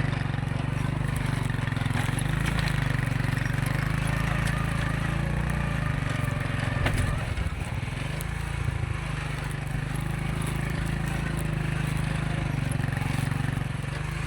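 An engine running steadily at a constant pitch, with a brief dip about seven seconds in.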